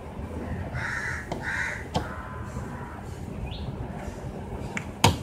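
Two short, harsh bird calls in quick succession about a second in, over a steady low background noise, with a sharp click near the end.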